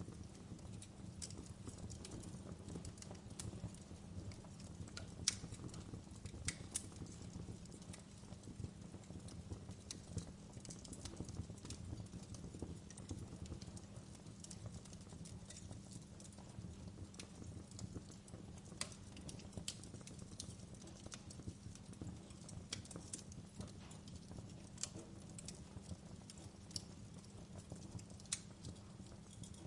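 Wood fire crackling: irregular sharp pops and snaps of burning wood over a low steady rumble of the flames.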